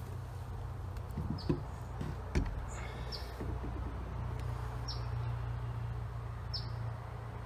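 A bird repeating a short, high, falling chirp four times, about every second and a half to two seconds, over a steady low rumble. Two sharp knocks come about a second and a half and two and a half seconds in, from the rifle uppers being handled on the wooden deck.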